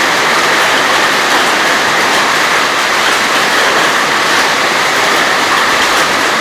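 Heavy hailstorm: hailstones and rain pelting down in a steady loud roar, dense with tiny hits.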